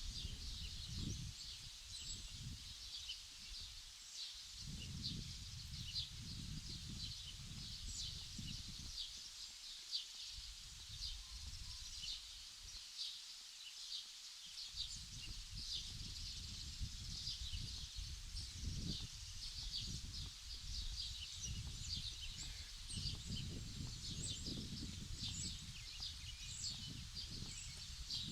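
Many small birds chirping continuously, short high calls overlapping one another, over a low gusty rumble of wind on the microphone that comes and goes and briefly drops away twice.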